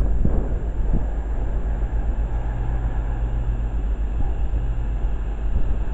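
Train at a station platform: a steady low rumble with a constant hum.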